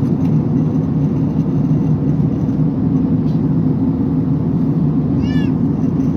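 Steady, loud drone inside a passenger airliner's cabin. About five seconds in there is one brief high-pitched squeaky call.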